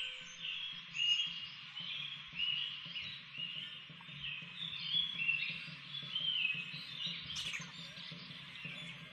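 Birds chirping: a busy run of short, repeated chirps about twice a second, with one sharply rising whistle-like call a little after seven seconds, over a faint low steady hum.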